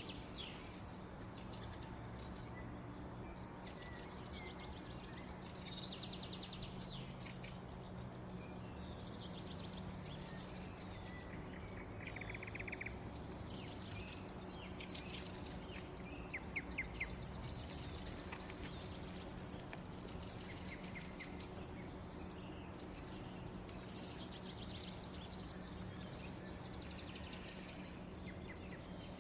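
Small songbirds chirping and singing faintly in short, scattered trills, with a few sharper chirps about halfway, over a steady low hum and background noise.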